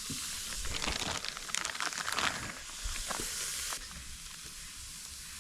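Hamburger patties sizzling on a hot grill: a steady hiss with a run of crackles and pops, then the sizzle drops off suddenly near the end.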